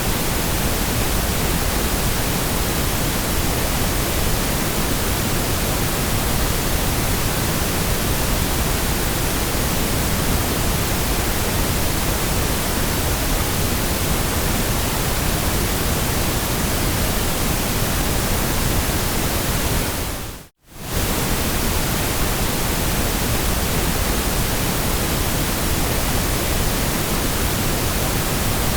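Steady white noise: an even hiss across the whole range, a little heavier in the low end. About twenty seconds in it briefly fades out to silence and comes straight back.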